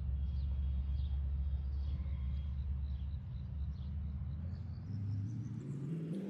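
An engine running low and steady, then rising in pitch over the last couple of seconds as it revs up, with faint chirps of insects or birds above it.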